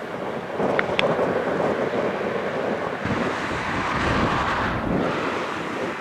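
Wind buffeting the microphone over the distant, steady rumble of an Airbus A320neo's engines, the low rumble swelling about halfway through.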